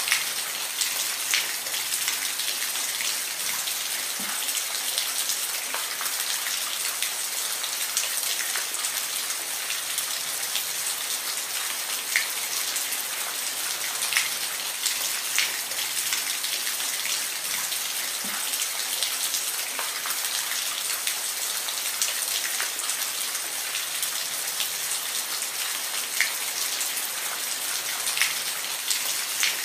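Steady rain falling, an even hiss with many distinct drops ticking and pattering on a hard surface throughout.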